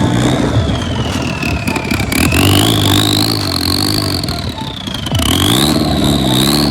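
Sports car exhaust idling, then blipped twice near the end so the note rises and falls. A high whine rises and falls alongside it.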